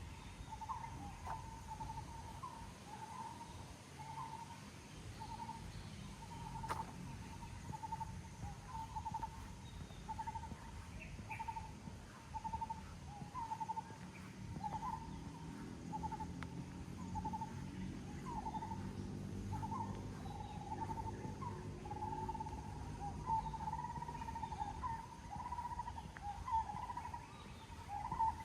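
A bird repeating a short hooting note over and over, a little more often than once a second, over steady outdoor background noise. A low droning hum rises in the middle and fades again.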